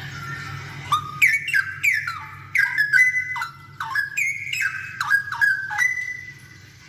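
Straw-headed bulbul (cucak rowo) singing: a run of rich whistled notes, many sliding up or down in pitch, starting about a second in and stopping about a second before the end.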